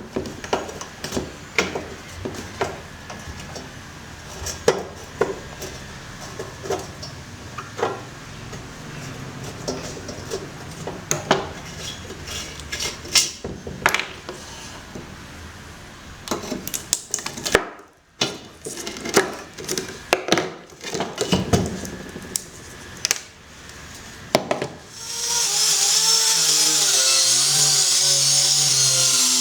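Irregular clicks and knocks of tools and parts being handled, then about 25 seconds in a power tool starts and runs steadily with a high whine.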